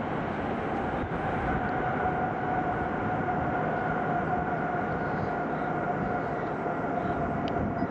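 Jet airliner engines running, a steady rushing noise with a steady whine held on two tones.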